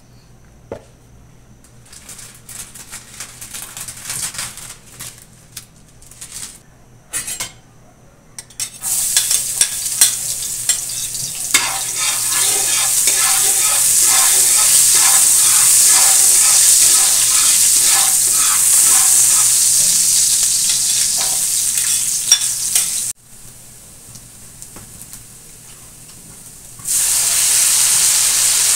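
Food frying in hot oil in an aluminium wok: after a few light clatters, loud sizzling starts about a third of the way in as minced garlic hits the oil, with a spatula scraping and stirring through it. The sizzle drops suddenly about two-thirds through, then loud sizzling returns near the end as raw chicken pieces go into the pan.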